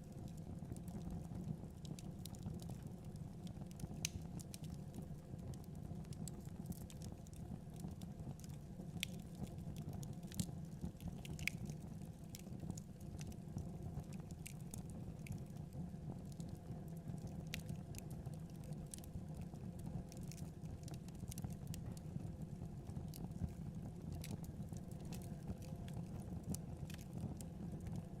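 Fire burning in a fireplace: a steady low rush of the flames with scattered sharp crackles and pops.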